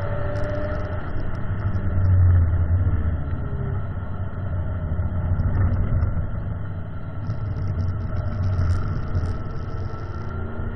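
Ford Mustang engine heard from inside the cabin, running hard at track speed with wind and road noise. It swells about two seconds in and eases a little later on as the throttle changes.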